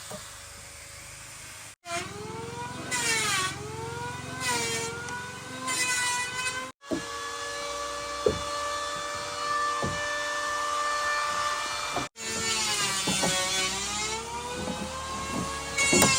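Electric power saw cutting wood, its whine dipping in pitch as it bites into the cut and rising again, several times over, with a few sharp knocks in between.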